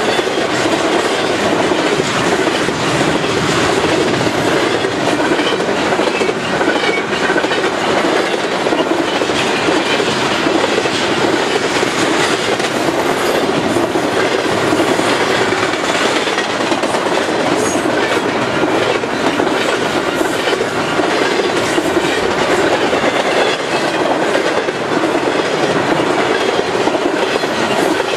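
Double-stack container train's well cars rolling past close by: loud, steady noise of steel wheels running on the rails.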